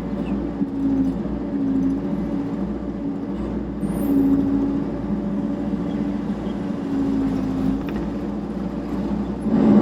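Kubota KX121-3 mini excavator's diesel engine running steadily, its note rising and falling several times as the machine works. It gets louder near the end.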